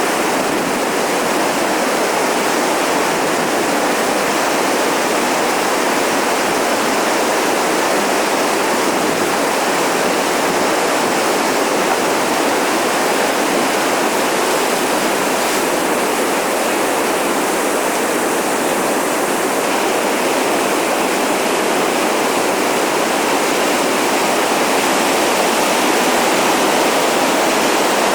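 Whitewater river rapids rushing: a steady, loud wash of water noise with no breaks.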